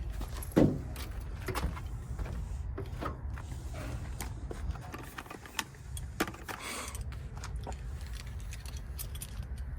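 Scattered light clicks, taps and rattles of small metal parts being handled, with a louder knock about half a second in and a short scraping rush near seven seconds, over a low steady rumble.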